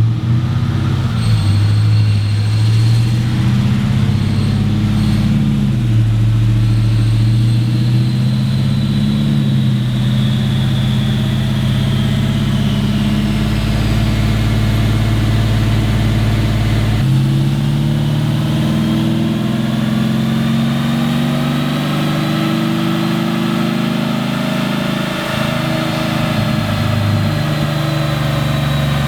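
Twin-turbocharged 6.2 L V8 of a Chevrolet Silverado Z71 running under load while the truck is driven, the engine note rising and falling with an abrupt change about seventeen seconds in. A faint high whine sweeps down and back up over the engine.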